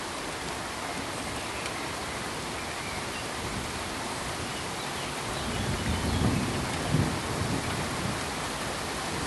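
Steady pink noise, an even hiss, with an irregular low rumble swelling up from about five and a half to eight seconds in.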